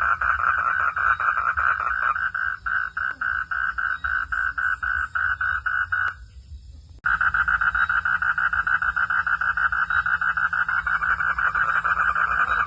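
Night chorus of frogs calling in a rapid, even pulsing trill of about five pulses a second. The calling drops away for most of a second midway and then comes straight back at full level.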